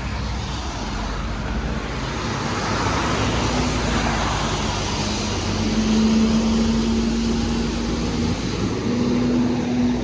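Loud, steady mechanical rushing noise with a low hum that comes in about three seconds in and steps up slightly in pitch near the end.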